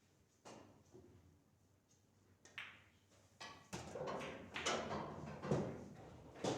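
Pool balls clacking against one another and the table: a few separate sharp knocks, then a busy run of clacks in the second half with a last sharp one near the end.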